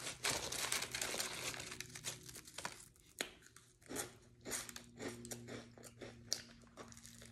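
Close-miked chewing of crunchy hot fries and a sub sandwich: dense crunching for the first two seconds or so, then slower, scattered chewing clicks.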